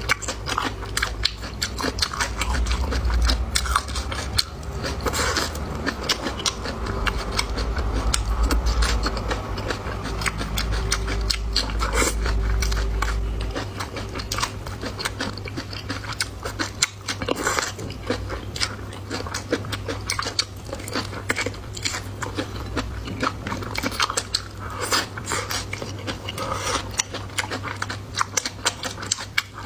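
A person chewing and biting food close to the microphone: a dense, irregular run of small crunches and wet mouth clicks.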